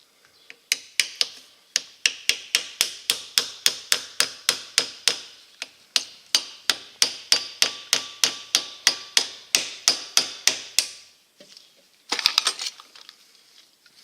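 Hammer tapping a makeshift punch to drive the roll pin out of an air valve's lever, about four sharp metal strikes a second for some ten seconds. Near the end there is a brief quick clatter.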